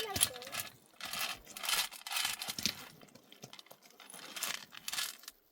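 Small stones clinking and crunching in an uneven run of short clicks and scrapes.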